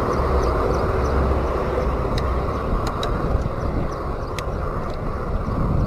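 Steady rushing wind and road noise from riding a bicycle, with a few sharp clicks scattered through it.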